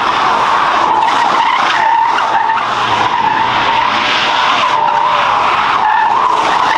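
Car tyres squealing in a continuous, loud screech as a car slides sideways in a drift, the pitch wavering up and down.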